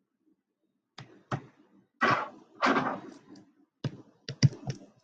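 Clicks and taps, as of buttons being pressed while numbers are keyed into a calculator. There are two clicks about a second in, two longer, louder noisy sounds in the middle, and a quick run of clicks near the end.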